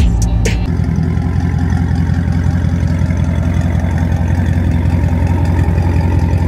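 Dodge Charger Scat Pack's 6.4-litre 392 HEMI V8 idling, with a low, steady exhaust rumble.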